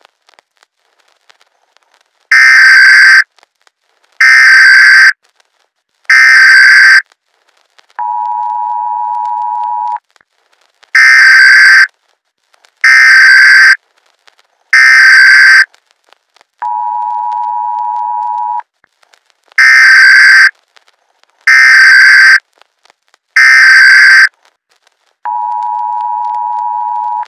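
Emergency Alert System broadcast signal: three loud, screeching bursts of SAME digital header data, then about two seconds of the steady two-tone attention signal. The pattern runs three times.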